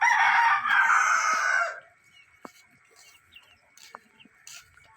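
A rooster crowing once: one loud call of about two seconds that ends near the two-second mark.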